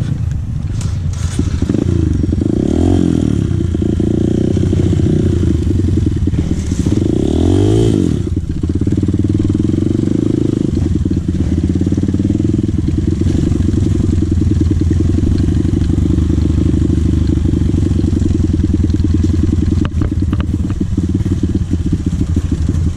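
Dirt bike engine running under way, revved up and back down twice in the first eight seconds or so, then holding a steady drone.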